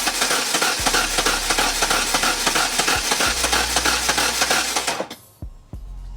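Truck engine being cranked over on the starter motor: a loud, harsh metallic rasp that cuts off about five seconds in without the engine catching.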